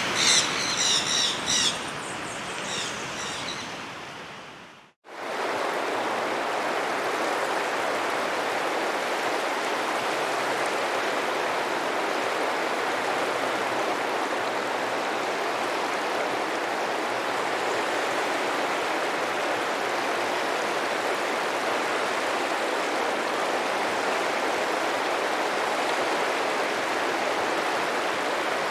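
Water noise with birds chirping in quick runs of high notes, fading out to a moment of silence about five seconds in. After that comes a steady, even rush of flowing water with no surges.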